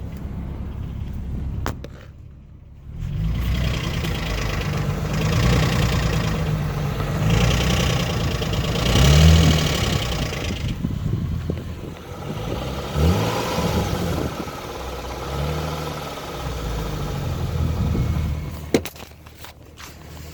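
Infiniti G35's VQ35HR 3.5-litre V6 running and being revved several times, the pitch rising and falling with each blip. It carries an intermittent knocking noise that the owner hears at the start of a run and that sometimes goes away after switching the car off and on.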